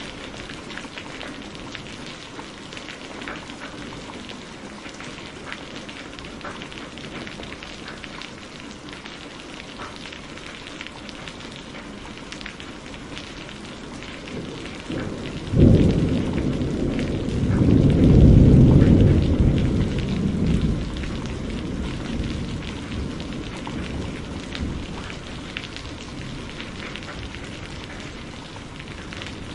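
Steady rain with a thunderclap about halfway through: a sharp crack followed by a deep rolling rumble that swells for a few seconds, then slowly dies away under the rain.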